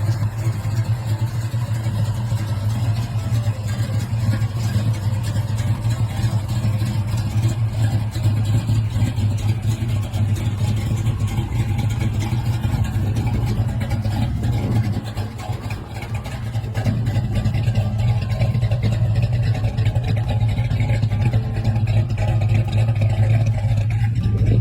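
Car engine running, a steady low drone, with a brief drop in level about fifteen seconds in before it picks back up.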